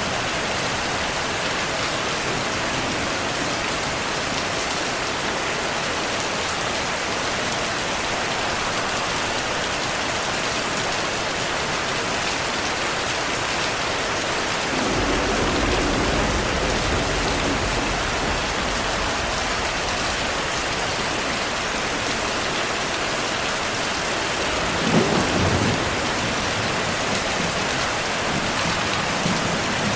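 Steady heavy rainfall, with a low thunder rumble swelling up about halfway through and a shorter rumble near the end.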